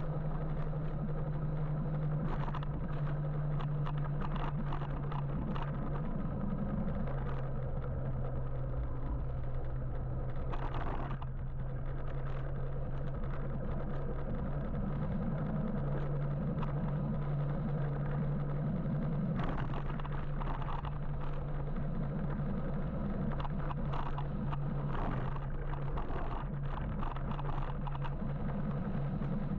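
Riding an electric motorbike in city traffic: steady road and wind noise under a low hum that shifts slightly in pitch, with scattered short clicks and rattles.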